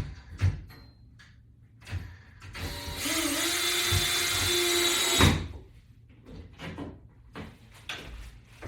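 A power drill driving a screw runs steadily for about three seconds in the middle and stops abruptly. Before it come a few knocks and clatters from handling parts, with lighter clicks afterwards.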